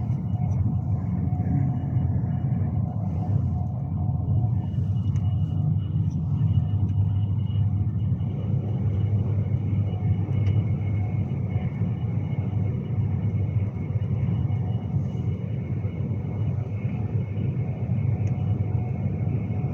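Steady low rumble of a Class 390 Pendolino electric train running, heard from inside the carriage, with faint steady whining tones above it.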